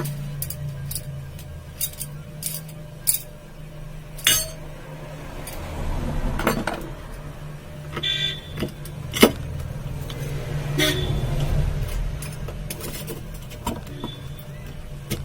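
Scattered metallic clicks and knocks of tools and ceiling fan parts being handled, with a brief ringing clank about eight seconds in and a sharp knock just after, over a steady low hum.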